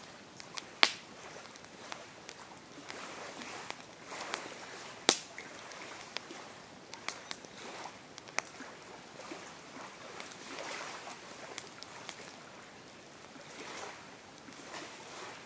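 Campfire crackling: scattered sharp pops and snaps over a soft, uneven hiss, with two louder pops, about a second in and about five seconds in.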